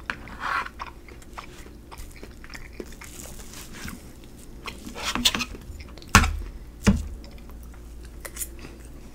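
Close-miked eating sounds: a person chewing and working food in the mouth, with small clicks and scrapes of a fork against the plate, and a louder low thump about six seconds in.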